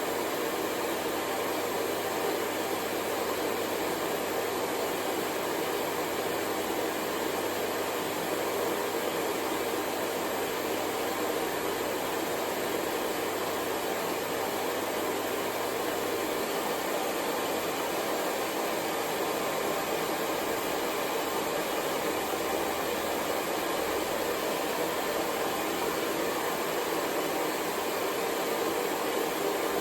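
Hair dryer running steadily: a continuous, even rushing noise of the blower with no change in level.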